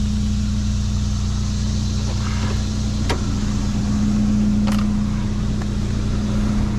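Truck engine and road noise while driving: a steady low drone with an even hum. Two sharp clicks break in about three and about four and a half seconds in.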